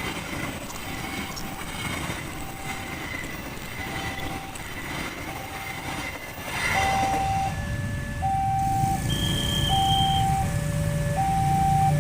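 Railroad level-crossing warning alarm sounding a repeating electronic tone. About 7 s in it turns into a louder two-tone alternating signal, high then low, about every second and a half. Vehicle engines hum underneath, growing near the end.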